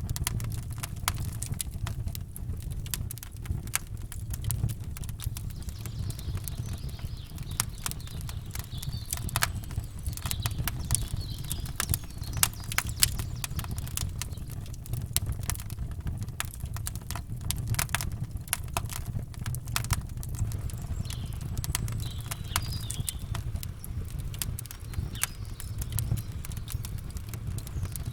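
Campfire crackling and popping in quick irregular snaps over a steady low rumble, with faint bird chirps now and then.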